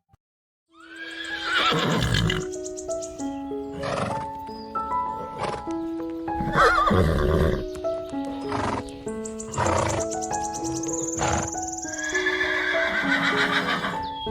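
A horse neighing three times, long wavering whinnies, over a gentle melodic backing track, with a few sharp thuds between the calls.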